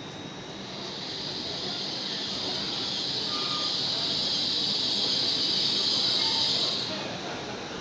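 Train running through a station: steady rail noise with a high squealing hiss from the wheels on the rails. It builds over the first few seconds and falls away about seven seconds in.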